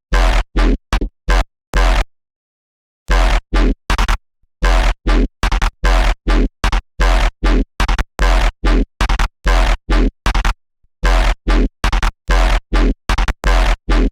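Serum software synthesizer playing a patch built on a wavetable made from an image: short, gritty, noisy synth notes with a deep bass under each, about two a second, stopping for about a second after two seconds and briefly again near ten and a half seconds.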